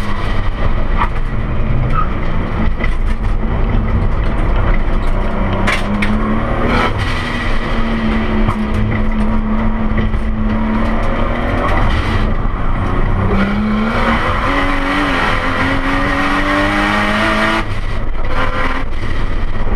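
Nissan Skyline R32's turbocharged RB25DET straight-six heard from inside the cabin while lapping a track, revs held fairly steady at first, then climbing in two pulls from about thirteen seconds in and dropping away near the end, with road noise throughout.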